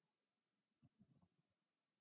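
Near silence, with a few faint soft low bumps about a second in.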